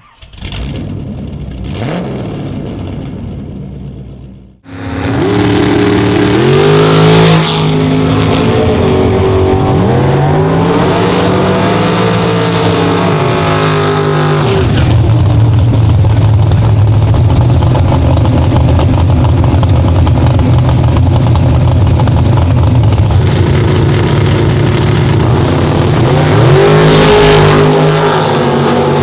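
Chevy Camaro drag car's engine, coming in loud about five seconds in and revving up and down again and again, then running at a steady loud drone, with one more rev rise near the end.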